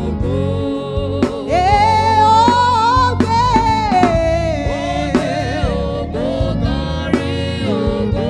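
Live gospel praise-and-worship music: a voice singing a sustained, gliding Yoruba praise chorus over band accompaniment with drum strokes.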